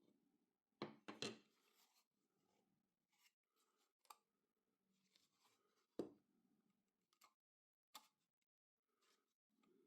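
Faint, scattered clicks and knocks of handling tools or small parts at a workbench, a few sharper ones standing out, with soft scraping in between.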